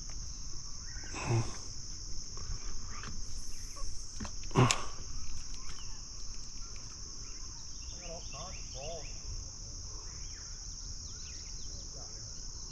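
Steady, high-pitched insect chorus, constant throughout, with two brief louder knocks about a second and a half and about four and a half seconds in.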